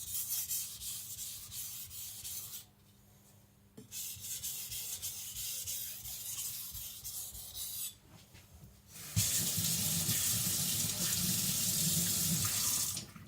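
Quick back-and-forth strokes of a white-steel (shirogami) nakiri edge scraping on a 1000-grit Naniwa Professional whetstone under very light pressure, refining the edge after the burr: two runs of strokes with a pause between. About nine seconds in a louder steady rushing noise takes over for about four seconds and cuts off near the end.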